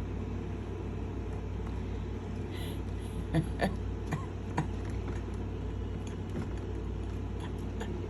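Steady low rumble of city traffic, with a few short taps and knocks scattered through the middle.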